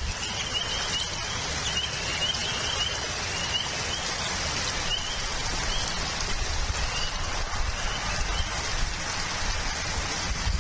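Steady rain falling, an even hiss. Over it a bird chirps in short high rising notes, several a second at first, thinning out after a few seconds.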